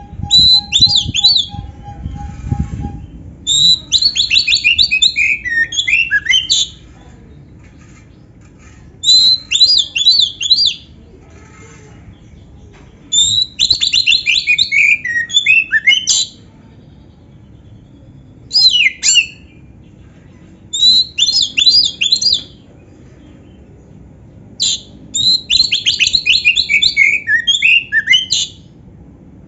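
Oriental magpie-robin (kacer) singing a 'gacor' song full of canary-style imitation: about seven loud, high phrases of rapid trills and sweeping notes, each one to three seconds long, with short pauses between them. A faint steady hum and a low rumble sit under the first few seconds.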